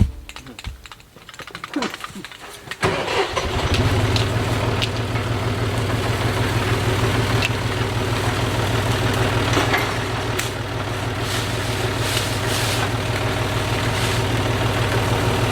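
An engine starts about three seconds in, after a few seconds of clicks and rattles, then runs steadily at idle.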